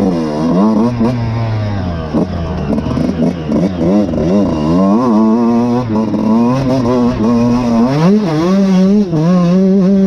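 Suzuki RM125 two-stroke single-cylinder motocross engine revving up and down repeatedly under riding, the pitch climbing and dropping many times, with a couple of short stretches held steady near the middle and near the end.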